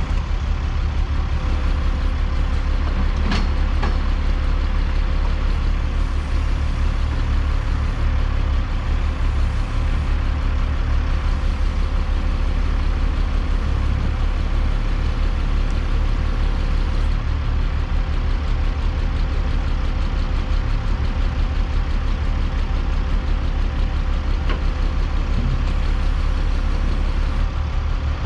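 Log truck's diesel engine running at a steady idle, a constant low rumble, with one sharp click about three seconds in.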